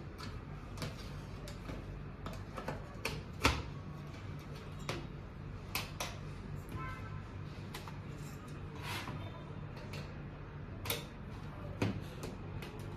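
Irregular sharp clicks and taps, the loudest about three and a half seconds in, over a steady low hum, with a few brief high beeps.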